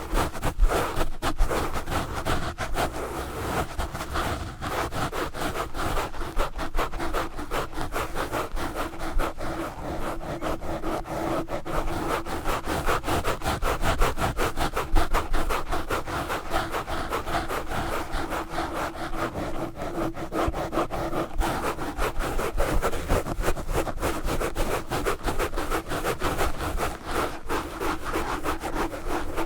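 Knitted yarn gloves scratching fast and hard on a Blue Yeti microphone, with a dense run of rapid strokes that goes on without a pause.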